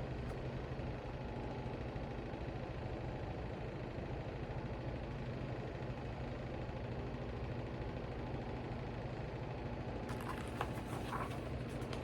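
Steady low mechanical hum, with a few soft clicks about ten seconds in.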